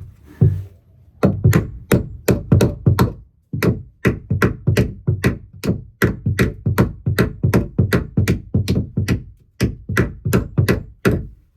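Hammer driving nails into a wooden roost plank: a long series of sharp strikes, about three to four a second, broken by a few short pauses.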